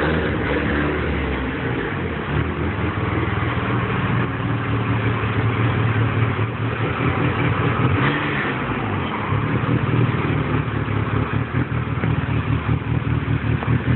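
Exhaust of a turbocharged DSM with a fully built four-cylinder engine and a Garrett 3582R turbo, freshly reworked, running loud and revving as the car pulls away.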